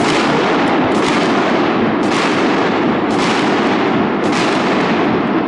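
Fireworks barrage: a dense, unbroken run of bangs and crackle, with a heavy burst about once a second.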